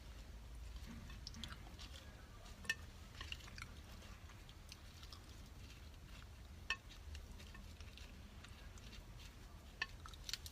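A person quietly chewing food, with a few sharp clicks of something small being handled, four of them spread out, over a low hum.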